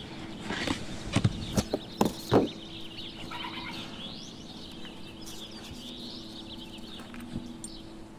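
Cardboard winch box and its packing being handled, with several sharp knocks and rustles in the first couple of seconds. After that, birds chirp in the background over a faint steady hum.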